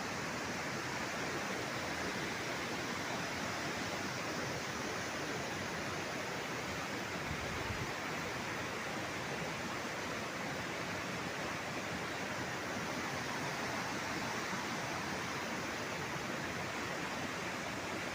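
Steady rushing water, an even unbroken roar with no surges or breaks.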